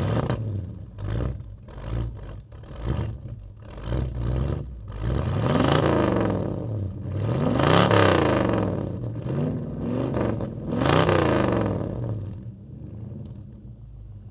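Ford Mustang engine being revved: a quick run of short throttle blips, then three longer revs that climb and fall back. It settles to a lower, quieter running sound near the end.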